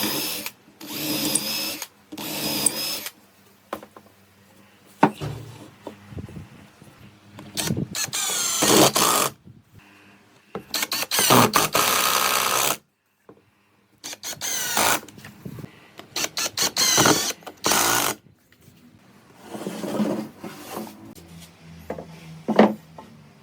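Power drill running in short bursts of one to two seconds, starting and stopping again and again, with the motor's pitch shifting as its speed changes.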